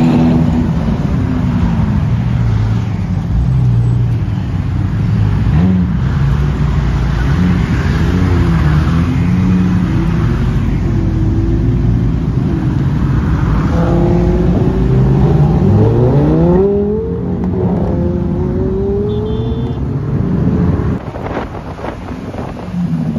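Several sports-car engines running and revving in a moving convoy; about two thirds of the way in, one revs up hard, its pitch climbing steeply.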